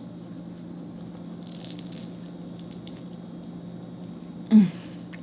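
Steady low room hum, with a faint rustle about one and a half seconds in and, near the end, one short loud voice sound falling in pitch.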